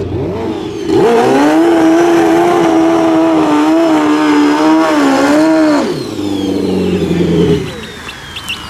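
Pro Street drag bike engine revved hard about a second in and held at high revs with a slightly wavering pitch for about five seconds. It then drops back and runs at lower revs before fading out.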